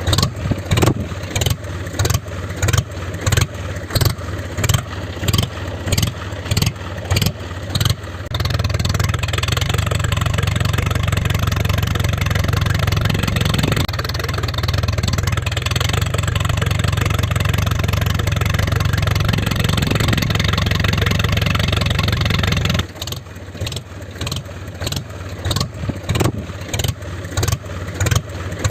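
Tractor engine chugging in even beats about two a second, then running steadily and louder at higher revs from about eight seconds in until about twenty-three seconds, when it drops back to the chugging idle.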